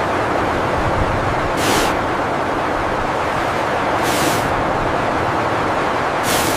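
Snowstorm wind blowing steadily, with three brief hissing gusts.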